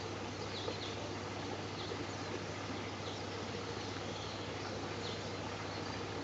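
Outdoor background with birds giving a few short, high, down-slurred chirps at irregular intervals over a steady hiss and a constant low hum.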